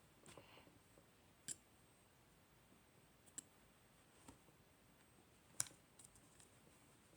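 Near silence broken by a few short, faint clicks, the loudest about five and a half seconds in.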